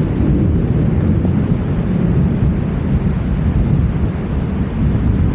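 Heavy rain pouring steadily, a dense, unbroken rush of noise weighted toward a low rumble.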